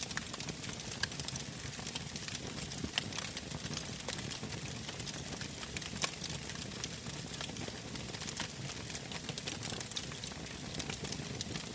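A bonfire crackling, with frequent irregular sharp pops and snaps over a steady low rush.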